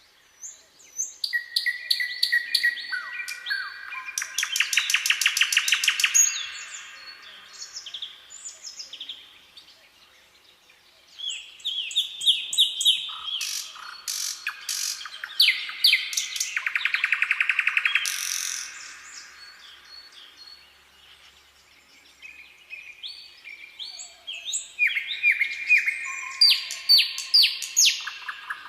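Songbirds singing in three bursts of song. Each burst is made of quick chirps and whistled notes and includes a fast rattling trill, with quieter gaps between the bursts.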